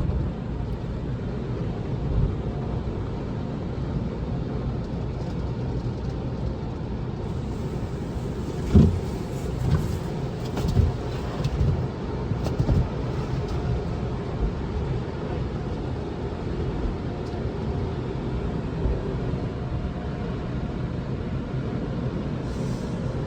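Steady low rumble heard from inside a car, with a few short louder thumps about nine to thirteen seconds in.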